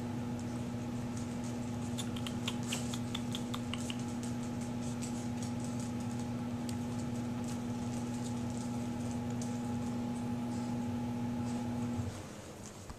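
A steady machine hum, the loudest sound, cuts off about twelve seconds in. Scattered soft clicks and a quick run of faint high squeaks sound over it.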